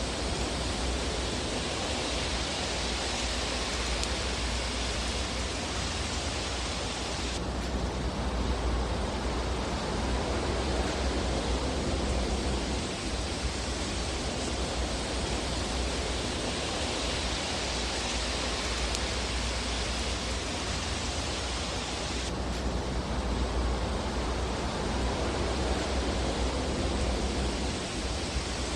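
Steady rushing hiss of a fireplace ambience track, with a low rumble underneath and no distinct crackles or pops. The upper hiss drops abruptly about 7 seconds in and again about 22 seconds in.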